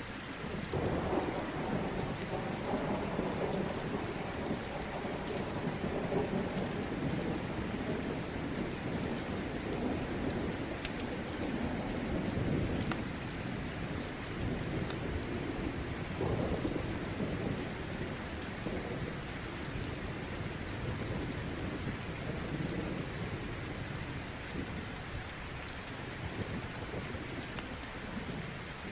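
Steady rain with low rolls of thunder, one swelling about a second in and another around sixteen seconds, and scattered faint ticks over the rain.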